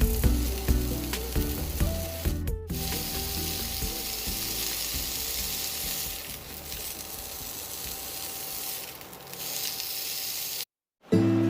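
Food sizzling in a hot pan, a steady crackling hiss. Background music plays over it for the first couple of seconds, then the sizzling carries on alone after a brief break.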